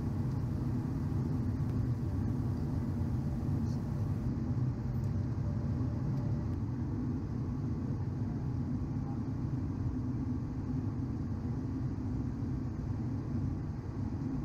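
Steady low rumble of a Cessna Citation XL's jet engines and airframe, heard inside the cockpit.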